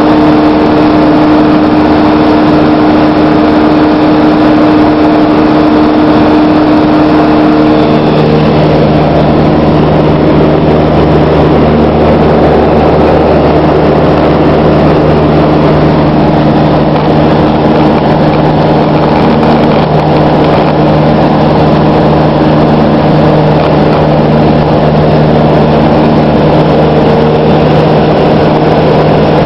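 Cessna 152 light aircraft's four-cylinder piston engine and propeller droning steadily and loudly. Its note changes about eight seconds in, to a lower, deeper drone.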